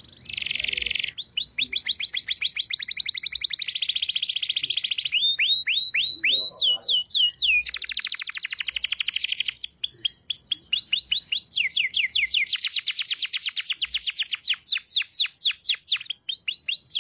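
Songbird tutor recording: fast trills of high, downward-sweeping notes, switching to a new trill pattern every second or so.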